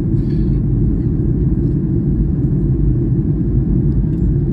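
Steady low rumble of a passenger airliner heard from inside the cabin.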